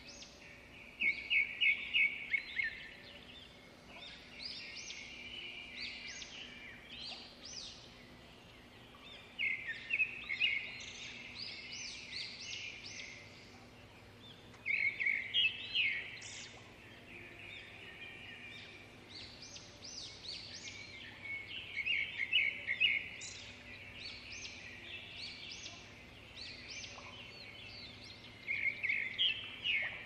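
Birds calling in bursts of rapid chattering notes, one burst every five to seven seconds, over a faint steady low hum.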